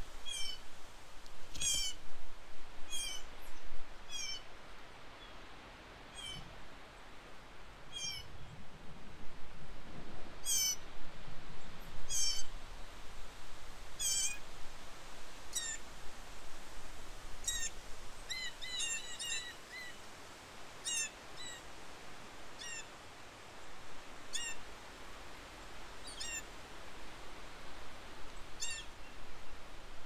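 Small songbirds giving short, sharp calls over and over, one every second or two and a quick run of several near the middle, over a steady rush of wind.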